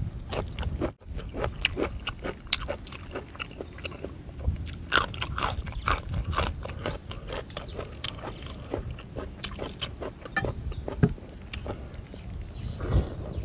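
Close-up crunching and chewing of crisp vegetable pieces: many short, sharp bites in quick succession.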